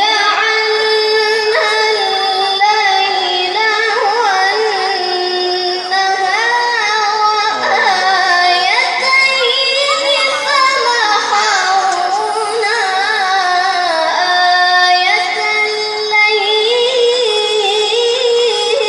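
A child reciting the Quran in melodic tilawah style, a high voice drawing out long notes with wavering, ornamented turns.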